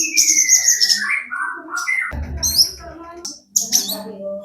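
Long-tailed shrike (cendet) singing a fast, varied song full of mimicked snatches (isian): harsh high rasps, a whistle sliding downward, and a rough, noisy burst about two seconds in.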